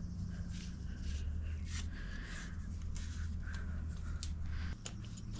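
Faint clicks and light scraping of small metal parts being handled, over a steady low hum.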